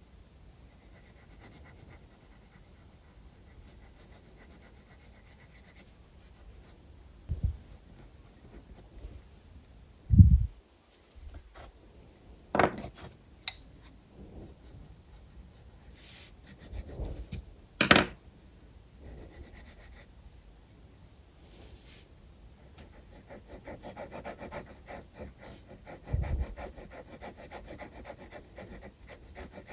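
Graphite pencil strokes scratching and rubbing on sketchbook paper, turning into quick, dense back-and-forth shading over the last few seconds. A few short dull knocks stand out in between.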